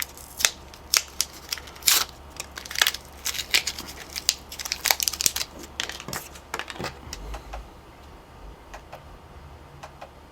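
Hands handling small parts, a laptop power adapter plug and the tip it plugs into: irregular clicks and crinkling, dense for the first seven seconds, then sparser.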